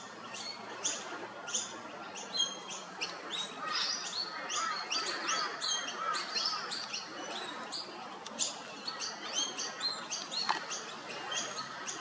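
Birds chirping: a steady run of short, sharp, high chirps, several a second, some dropping slightly in pitch, over a soft outdoor hiss.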